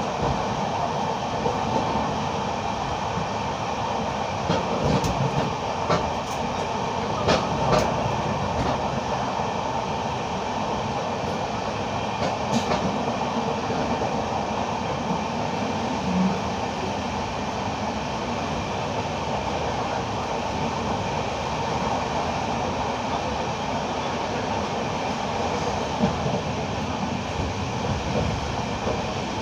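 Indian Railways train running: a steady rail rumble, with a few sharp clicks about five to eight seconds in.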